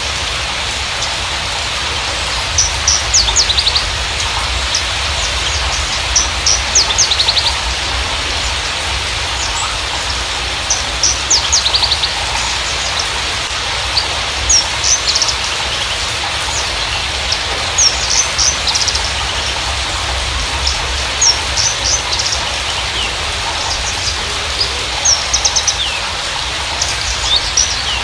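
Javan bushlark (Mirafra javanica parva) singing short, high chirping phrases and quick trills in clusters every second or two, over a steady hiss and low rumble.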